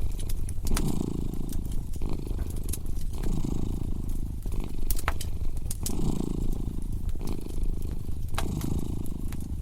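A domestic cat purring close up, a low buzzing rumble that swells and fades with each breath, about once a second. Over it, a wood fire crackles with irregular sharp pops.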